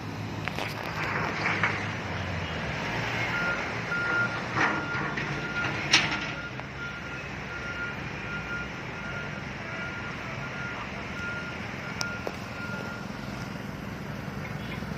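A vehicle's reversing alarm beeping at an even pace, roughly one beep every three quarters of a second, starting about three seconds in and stopping near the end, over steady street traffic noise. A sharp knock about six seconds in.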